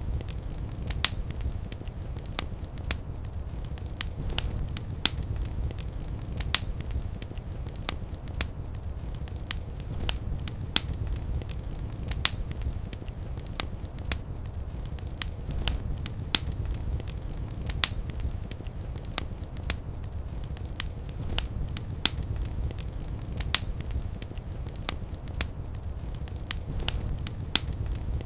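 Fire in a fireplace crackling: irregular sharp pops and snaps over a steady low rumble of burning.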